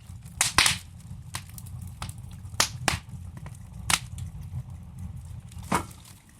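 Wood logs burning in a fireplace, with sharp irregular crackles and pops over a low steady rumble of the flames.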